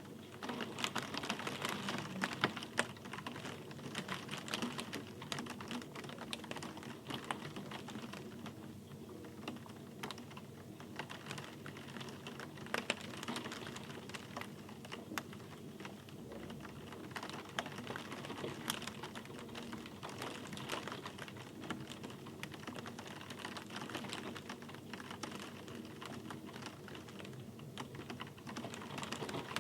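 Rain falling, heard as a dense, irregular stream of sharp drop ticks on a hard surface.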